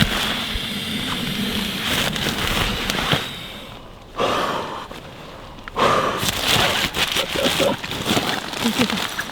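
Nylon tent fabric rustling and crackling as it is handled in strong wind, with wind buffeting the microphone. There is a quieter lull about three seconds in, then the rustling resumes.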